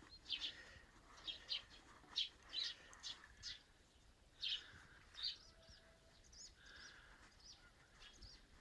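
Small birds chirping: a scattered string of short, high chirps, faint over a light background hiss.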